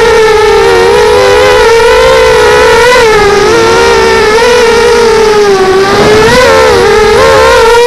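QAV250 quadcopter's electric motors and propellers whining loudly, the pitch wavering up and down with constant throttle corrections, over a low rumble of wind.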